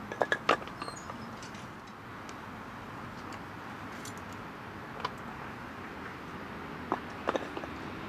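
A few sharp clicks and knocks over a steady hiss: a quick cluster at the start, a single one about five seconds in, and another short group near the end.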